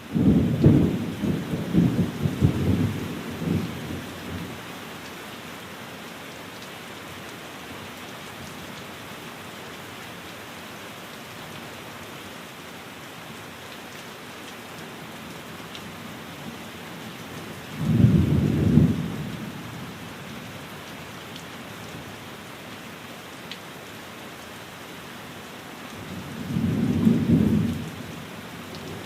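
Steady rain with rolls of thunder: a long rumble at the start lasting about four seconds, a shorter one about two-thirds of the way through, and another near the end.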